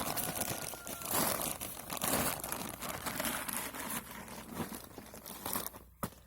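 Thin plastic bag crinkling and rustling as it is pulled on over a foot.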